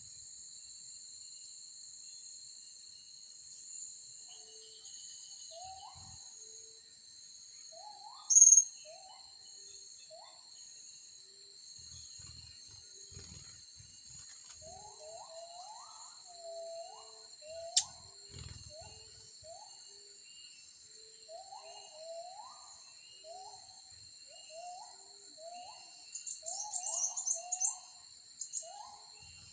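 Steady high drone of insects, with a bird repeating short rising whistled notes over and over. A single loud, high chirp comes about eight seconds in and a quick run of high chirps near the end, from blue-crowned hanging parrots.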